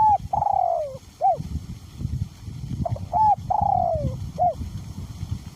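Male spotted dove cooing twice, each call a short note, a longer falling note and a short closing note. Wind rumbles on the microphone underneath.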